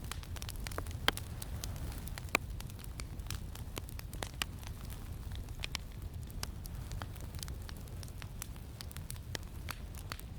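Campfire crackling, with many small irregular snaps and two louder pops near the start, over a steady low rumble of wind.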